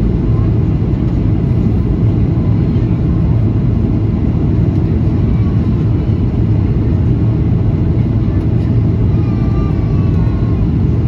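Steady low-pitched cabin noise of a Boeing 737-800 in flight, from its CFM56-7B turbofan engines and the air rushing past the fuselage.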